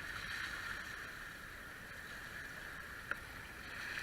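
Steady rush of water along the hulls of a Hobie Cat catamaran sailing downwind. A single sharp click comes about three seconds in.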